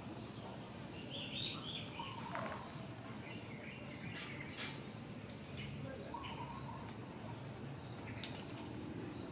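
Small birds chirping in short, repeated high notes over a steady low background noise, with a few sharp clicks.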